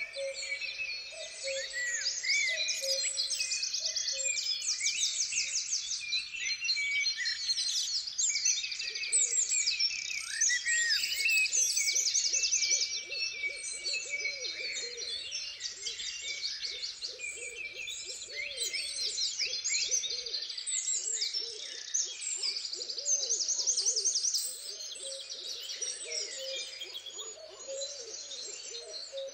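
A dense chorus of songbirds singing and chirping, with low hooting calls repeating underneath. In the middle stretch the low hooting becomes a busy, wavering run of notes.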